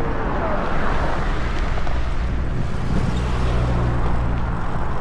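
Steady rush of wind and road noise while riding a bicycle along a road with motor traffic, with a vehicle's engine hum swelling for a second or so about three seconds in.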